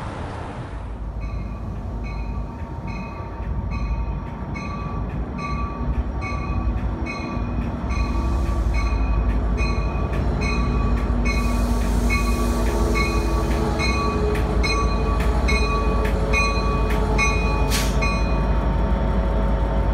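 A train passing at a railroad crossing, its rumble growing louder about eight seconds in, with clicks near the end. Through it a crossing bell rings steadily at about two dings a second.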